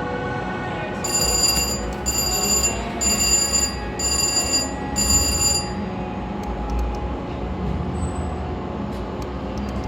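Slot machine sounds: a bright bell-like chime rings five times in quick succession starting about a second in, over a steady background din.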